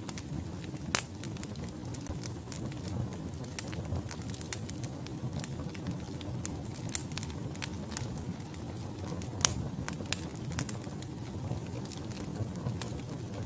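Wood fire burning in a fireplace: a steady low rumble of flames with irregular crackles and sharp pops from the burning logs. The loudest pops come about a second in and again near the middle.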